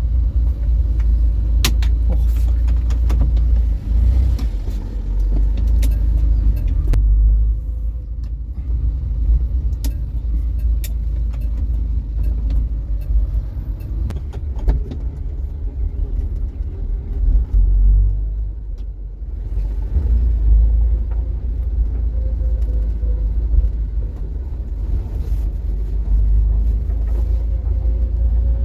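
1975 Vauxhall Viva HC being driven, with a steady low rumble of engine and road noise and occasional short clicks and rattles.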